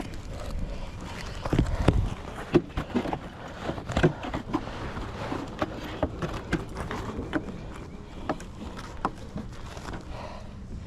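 Wooden beehive boxes, frames and tools being handled: an irregular run of knocks and clicks, heaviest about two and four seconds in.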